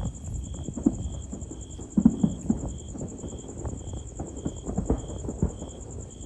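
Fireworks going off: an irregular run of pops and low thuds, loudest about two seconds in.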